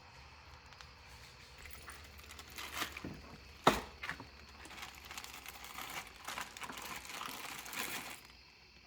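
Workshop handling noises: scattered clicks and knocks with one sharp knock a little over halfway in, then a few seconds of rustling and clattering that stops shortly before the end.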